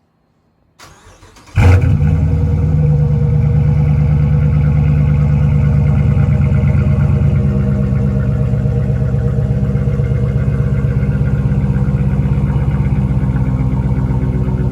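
A 2019 Dodge Challenger R/T's 5.7-litre HEMI V8 is cranked by the starter, catches about a second and a half in with a loud flare, then idles steadily through a one-off variable-valve aftermarket muffler, settling slightly quieter near the middle.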